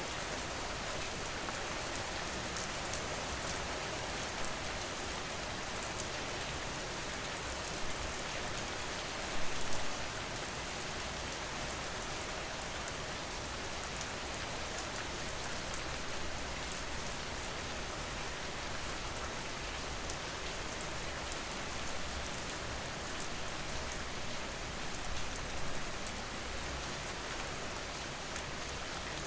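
Steady rain falling on a surface, an even hiss with fine ticks of separate drops, briefly louder about a third of the way in.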